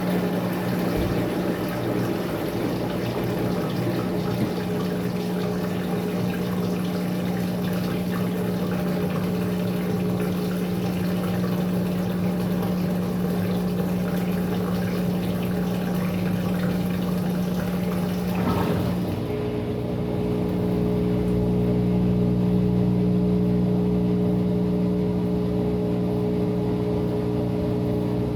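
Maytag top-load washer draining during a tub-clean cycle: the drain pump hums steadily under the rush of water leaving the tub. About two-thirds of the way through, the water noise stops and a steadier motor hum with several tones takes over, a little louder.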